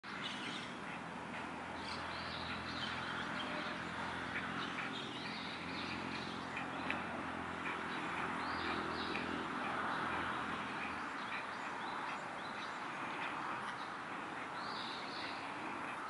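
Small birds chirping now and then with short high calls over steady background noise, with a low steady hum that fades out about eleven seconds in.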